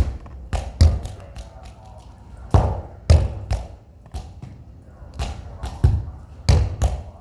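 A ball being kicked and bouncing: about a dozen irregular thuds.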